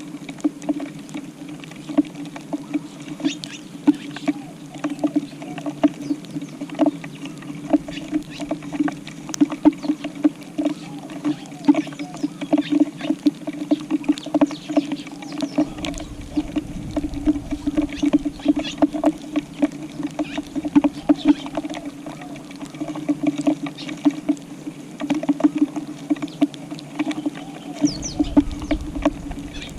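Tree sparrows pecking grass seed off a tile floor: a dense, irregular pattering of beak taps on the tile, with a brief high call near the end.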